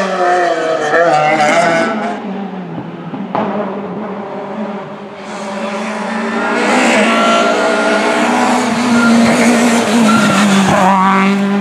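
Peugeot 306 Maxi rally car's high-revving 2.0-litre four-cylinder engine driven hard, its pitch rising and falling with throttle and gear changes. It fades a couple of seconds in, then comes back loud with a hiss of tyre noise, and revs up again near the end.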